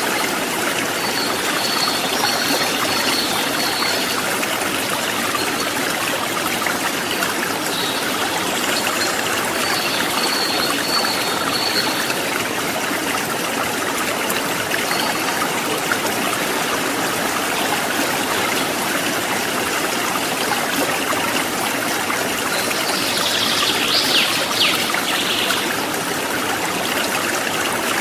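Stream water babbling and trickling over rocks, a steady continuous rush. A brief burst of high chirps rises over it near the end.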